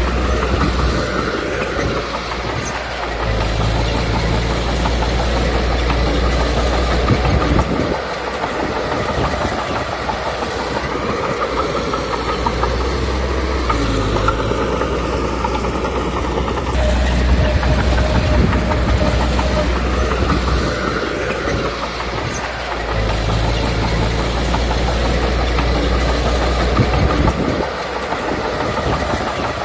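Komatsu D21P crawler bulldozer working, its diesel engine rumbling under load and easing off in cycles of a few seconds, with a steady clanking and rattling of its steel tracks.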